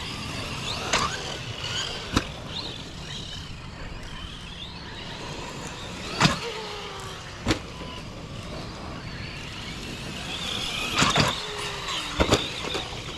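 Electric motors of several RC monster trucks whining up and down in pitch as they race. Several sharp knocks are heard as the trucks land or hit things.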